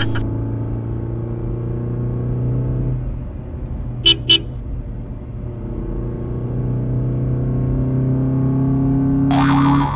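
Steady motor-vehicle engine drone, a sound effect for a toy scooter pushed by hand, with its pitch slowly drifting. Two quick horn beeps about four seconds in, and a brief, louder high-pitched tone near the end.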